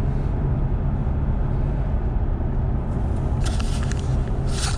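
Road noise inside the cabin of a four-wheel-drive vehicle being driven: engine and tyres running with a steady low rumble, and a few short crackles in the second half.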